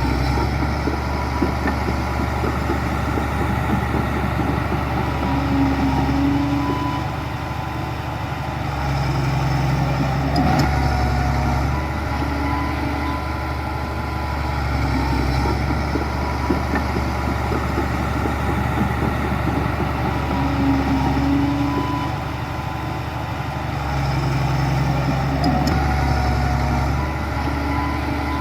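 Heavy diesel earthmoving machinery running steadily, its engine note rising and falling as the load changes, with louder swells about every fifteen seconds.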